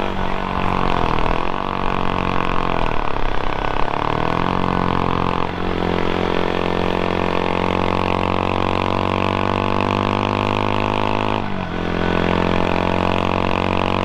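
CFMOTO Papio SS's 126cc single-cylinder four-stroke engine running under way. The pitch swings down and up a few times at first, then holds mostly steady, with brief sharp dips about five and a half seconds in and again near the end, as with gear changes.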